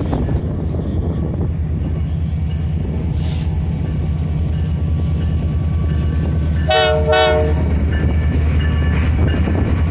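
Canadian Pacific Holiday Train's diesel locomotive running past with a steady low rumble. About seven seconds in, its horn sounds two short blasts close together.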